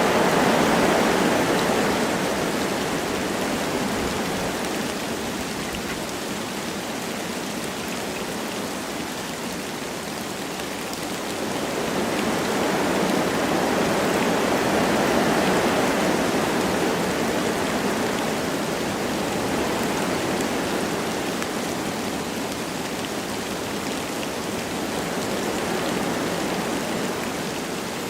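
Wind rushing through forest trees with light rain falling, a steady wash of noise that swells and eases in slow gusts, rising near the start, again in the middle and once more near the end.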